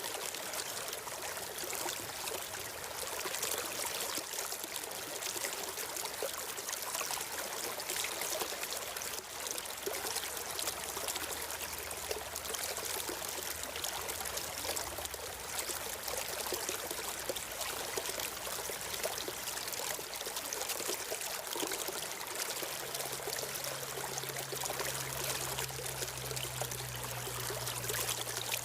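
A stream flowing steadily, an even rush of running water. A faint low hum joins in during the last third.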